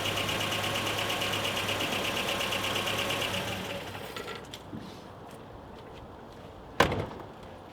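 A 1986 Nissan 720 pickup's Z24i four-cylinder engine idling steadily, then switched off about three and a half seconds in and dying away. Near the end there is a single sharp knock.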